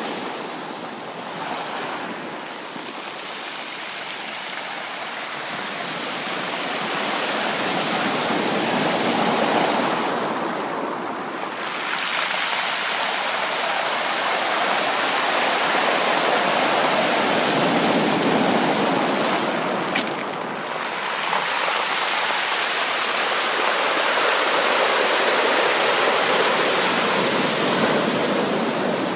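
Ocean surf washing onto a beach: a continuous rushing of waves that slowly swells and eases as each wave breaks and draws back.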